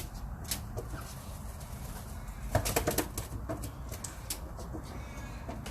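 A sick parrot moving about, with scattered clicks and a quick run of louder clicks and rustles about two and a half seconds in, over a steady low hum.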